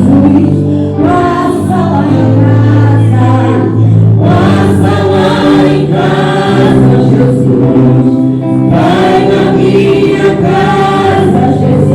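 Church worship team singing together in a solemn gospel praise song, with sustained low accompaniment notes beneath the voices.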